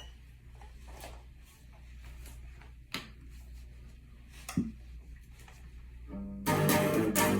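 Faint handling knocks with a sharp knock about three seconds in, then a guitar starts playing about six seconds in, loud plucked notes and chords.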